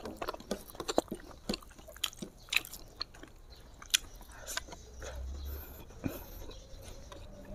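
Close-up mouth sounds of a person eating smoked pork and sticky rice by hand: scattered wet clicks, smacks and chewing, picked up on a clip-on microphone.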